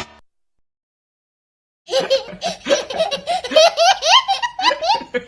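Laughter: a run of quick, high-pitched laughs that starts about two seconds in, after a short silence.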